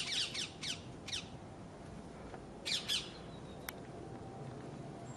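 Eurasian magpie chattering: a fast rattle of harsh calls that stops about half a second in, two more single calls, then a quick pair of calls about three seconds in.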